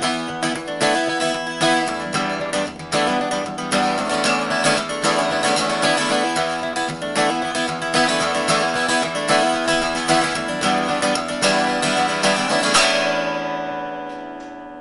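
Song's closing instrumental: acoustic guitar strummed briskly, ending on a final chord near the end that rings and fades away.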